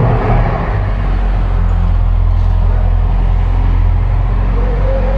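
Ferrari 488 GTB's twin-turbo V8, just started through a newly fitted FI Exhaust system, settling from its start-up flare into a steady idle within the first half second.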